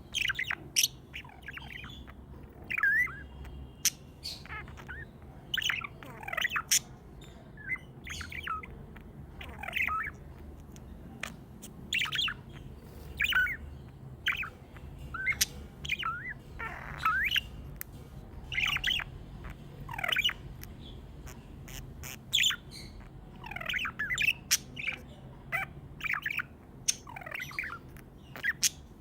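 Pet budgerigars chirping and squawking: many short, sharp calls in quick irregular succession, with brief gaps between them.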